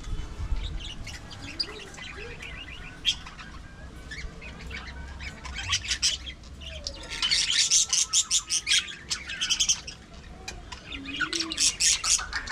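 Budgerigars chattering and chirping, with a loud run of rapid chirps in the middle and another near the end.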